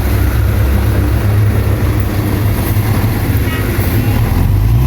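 Heavy earthmoving machine's diesel engine running steadily, a loud low engine drone without pauses.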